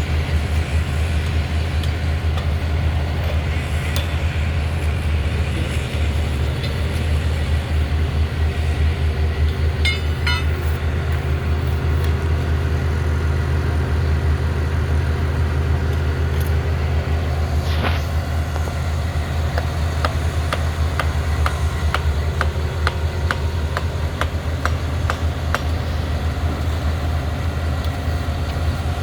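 A heavy engine running steadily with a low, even drone. Near the end comes a quick run of light metallic ticks.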